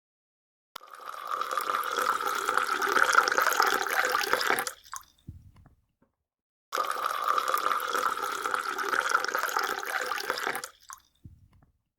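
Water running or pouring in two bursts of about four seconds each, each cutting off suddenly and followed by a faint low thump.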